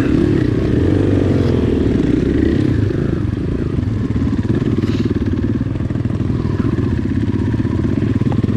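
Dirt bike's single-cylinder four-stroke engine running under way, its revs rising and falling as the bike is ridden along a slick trail.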